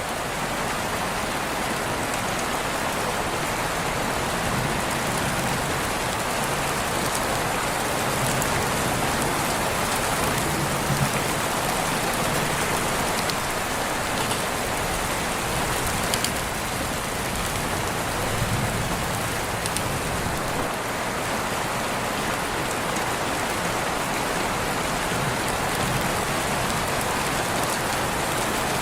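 Steady rain falling and pattering on surfaces, with occasional louder individual drops.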